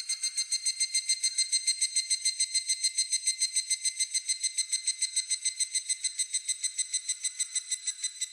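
Higurashi (evening cicada) calling: a rapid, even run of ringing pulses, about ten a second, tapering off near the end.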